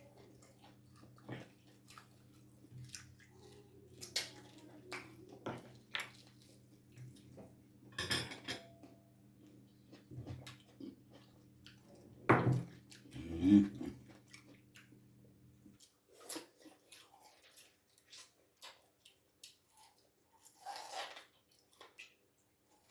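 Cutlery clinking on a dish and a person chewing, with scattered sharp clicks and a louder flurry of clatter about twelve to fourteen seconds in. A low steady hum under it cuts off about sixteen seconds in.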